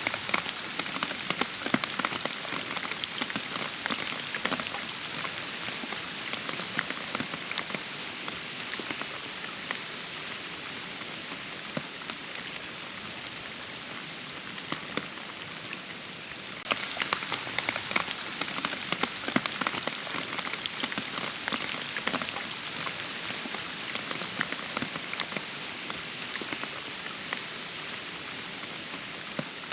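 Steady rain with a dense patter of individual drops. The patter abruptly thickens a little past halfway, then gradually eases again.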